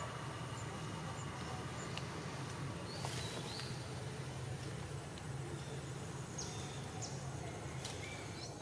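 Outdoor ambience with a steady low hum, and a few short, high-pitched animal chirps or squeaks: one about three seconds in, several more near the end.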